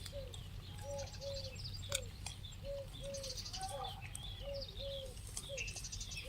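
Birds calling: a short low note repeated, mostly in pairs, with higher chirps and trills over it.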